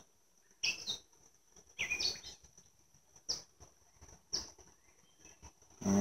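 A few short bird chirps over a steady, high-pitched insect trill, with a couple of light clicks as a wooden hive frame is lifted out of the box.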